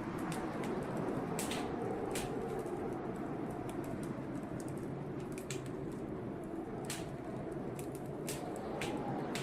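Wood fire crackling in a fireplace, with sharp, irregular pops and snaps over the steady rush of blizzard wind.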